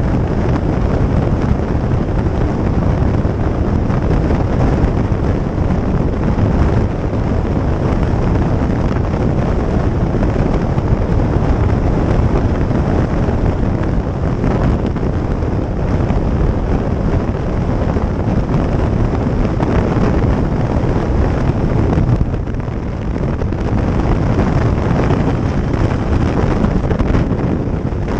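Steady wind rushing over the microphone of a moving motorcycle, with the bike's road and running noise under it. It eases briefly about 22 seconds in.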